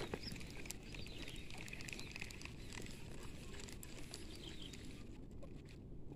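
Faint outdoor ambience: a low steady rumble with light high chirping and a few scattered clicks.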